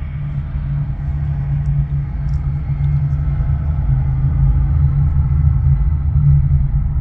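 Boeing 747 freighter's four turbofan engines at takeoff power: a loud, deep, steady rumble that grows slightly louder, with a thin high whine over it that fades after the first few seconds.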